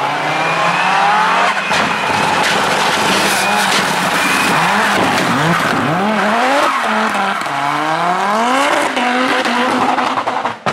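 Group B rally car engine accelerating hard, its revs climbing and dropping back several times in quick upshifts, with a few sharp pops and a hiss of tyre noise.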